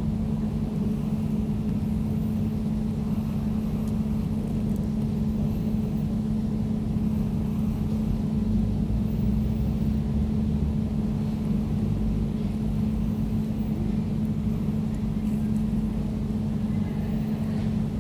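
Air conditioner running: a steady, unchanging hum with a low rumble beneath it.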